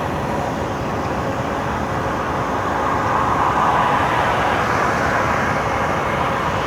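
Steady road noise of a moving car, swelling a little in the middle.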